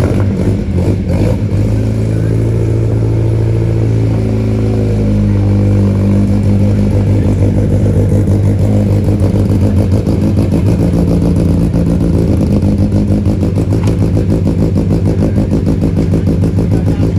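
Classic car engine idling just after starting, with an even, fast pulse; the idle settles over the first few seconds and then holds steady.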